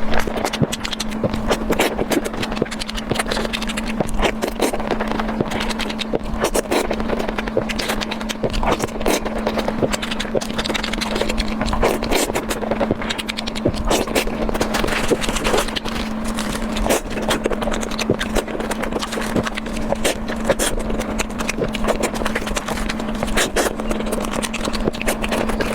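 Close-miked mouth sounds of someone eating spicy instant noodles: a dense, irregular run of wet clicks and smacks of chewing. A steady low hum sits beneath them throughout.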